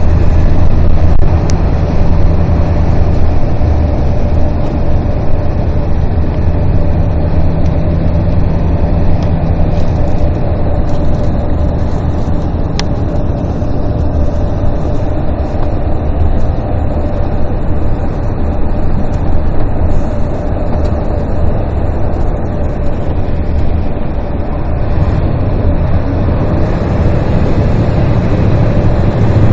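A motor vehicle's engine running steadily, with road noise, as a continuous low drone.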